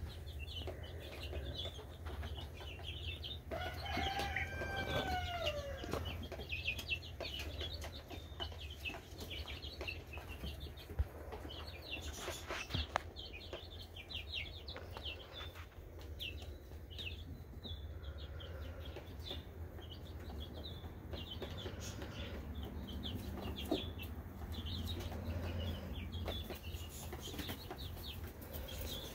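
Birds chirping in quick, high, short notes over and over, with one longer call of several arching tones about four seconds in, over a steady low hum. A few sharp clicks stand out about eleven and thirteen seconds in.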